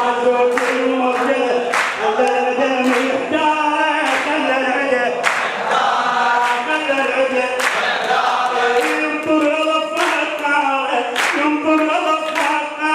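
A chorus of men's voices chanting a latmiya refrain in unison without instruments, with a sharp chest-beating slap in time about once a second.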